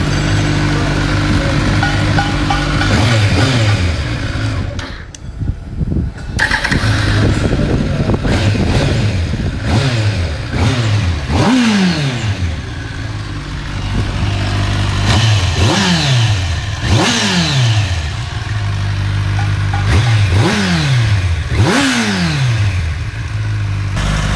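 Kawasaki big motorcycle engine idling, then revved with sharp throttle blips about seven times, each shooting up in pitch and falling quickly back to idle. It dips briefly near the quarter mark.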